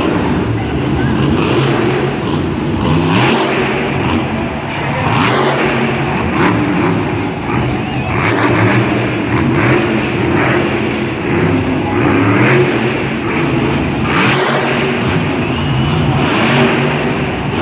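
Monster truck's supercharged V8 engine revving hard, its pitch rising and falling again and again, with sharp bursts of noise scattered throughout.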